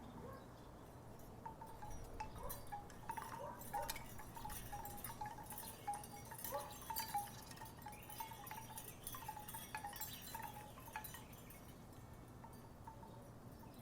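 Wooden tiki wind chimes knocking together in the breeze: a flurry of light clacks with a short ring to each, starting about a second and a half in and thinning out after about eleven seconds.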